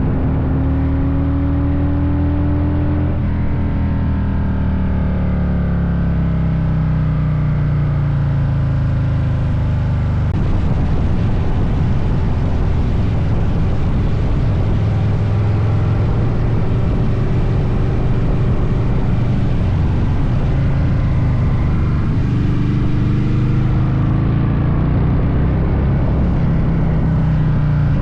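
Vehicle engine running under way. Its pitch climbs and falls with speed and drops abruptly about three seconds in, as at a gear change.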